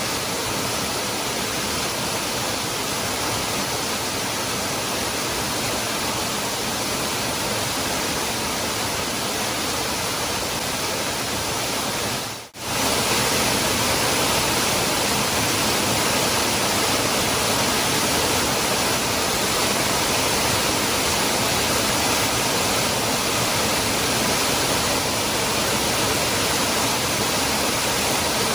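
Steady, full rush of a waterfall, the Cascada del Hervidero, pouring continuously. About halfway through it drops out for a split second and comes back slightly louder.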